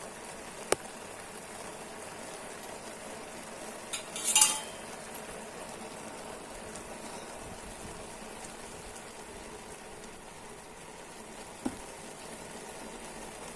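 Steady hiss of rice steaming in a pot on the stove. A sharp metallic clink about four seconds in and light knocks near the start and near the end, from pot and utensils as fried chicken pieces are laid on the rice.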